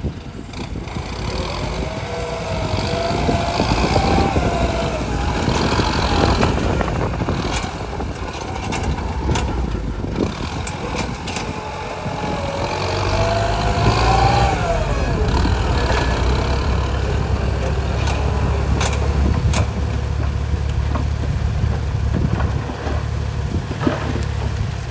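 Truck engine running under load, with a whine that rises and falls in pitch twice. A deeper, steadier rumble sets in about halfway through.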